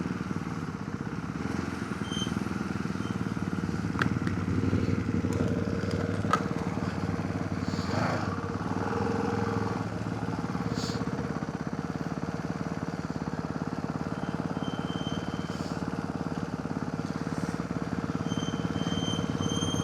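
Ducati motorcycle engine running steadily at low revs, as at idle, with two short sharp clicks a few seconds in.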